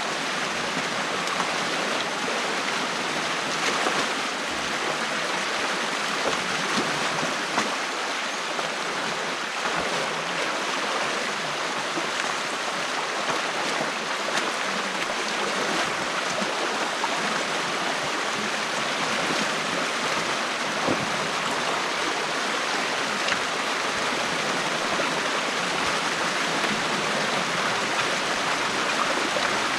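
Steady rush of stream water pouring through an opening in a beaver dam, with a few faint knocks.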